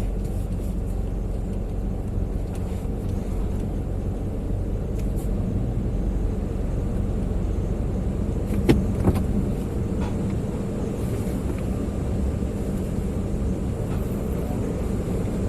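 Car running at low speed or idle, a steady low hum heard from inside the cabin, with two sharp clicks about nine seconds in.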